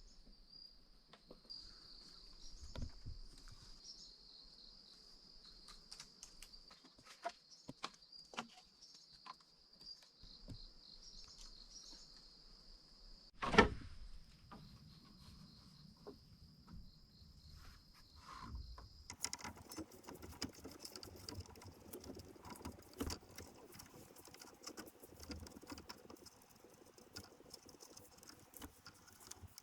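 Insects droning in one steady high tone, with scattered light clicks and knocks and one sharp, loud knock about halfway through. About two-thirds of the way in, the drone fades under dense crackling and rustling that runs to the end.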